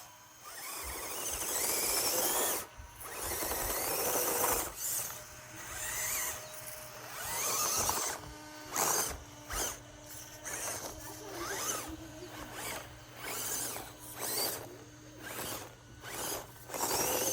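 Axial SCX24 1/24-scale RC crawler's small electric motor and gear train whining in repeated throttle bursts, the pitch rising and falling with each burst, about a dozen bursts with short pauses between.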